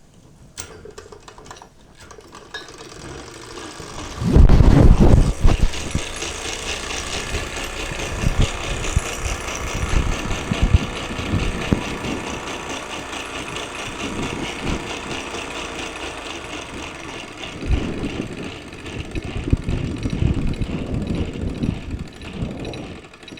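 Wilesco D419 toy steam showman's engine running under steam, its gear train clattering fast and steadily with a crunchy tight spot, from the middle drive gear running slightly off true against the small gear on the flywheel. A loud bump about four or five seconds in, before the clatter settles in.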